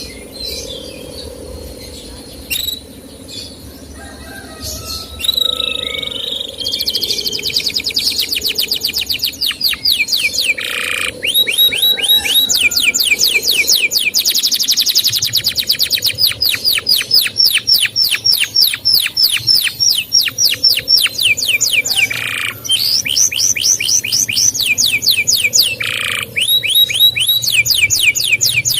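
Male domestic canary singing the fast repeated 'cuit-cuit' chirp phrase, many high notes a second in long runs broken by short pauses, starting after a few quieter seconds.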